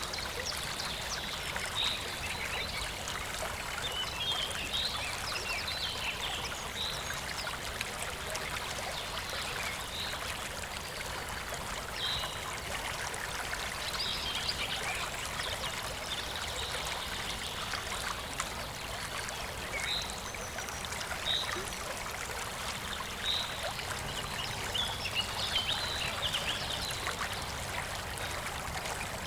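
Clear, shallow stream babbling and trickling steadily over stones, with short high chirps or plinks popping up every second or two.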